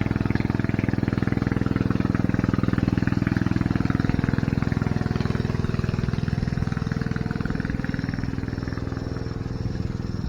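Antique tractor engine idling steadily, a fast even run of firing pulses with a low steady hum, getting a little fainter near the end.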